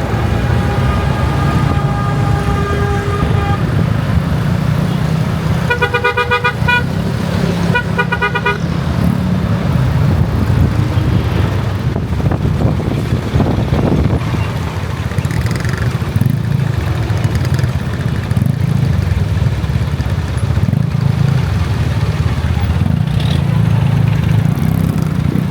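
Ride on a motorcycle through city traffic: steady engine and wind rumble, with a held vehicle horn in the first few seconds and two quick runs of rapid beeping horn toots about six and eight seconds in.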